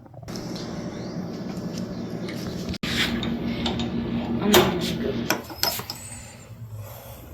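Metal parts and tools clinking and clattering as they are handled, over a steady low hum.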